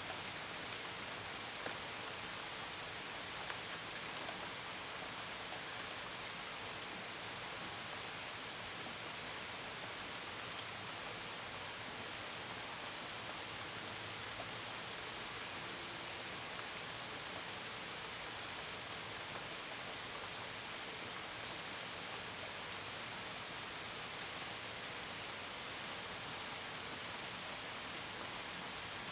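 Steady gentle rain with scattered drops tapping close by, and a cricket chirping at intervals over it.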